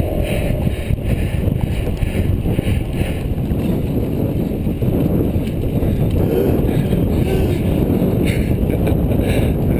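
Wind buffeting the microphone of a camera riding along on a moving bicycle: a steady, heavy rumble of rushing air.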